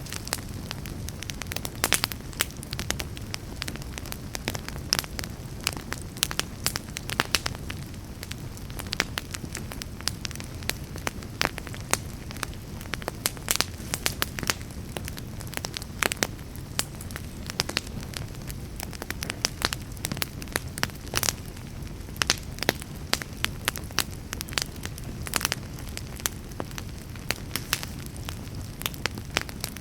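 Fireplace fire burning, with frequent irregular sharp crackles and pops over a steady low rumble of the flames.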